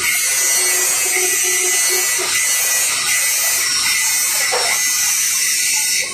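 Electric arc welding: a steady, unbroken crackling hiss from the arc.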